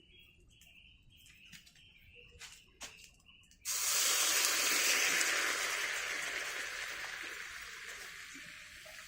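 Faint clicks, then a little over three seconds in a sudden loud sizzle from a hot pan that slowly fades.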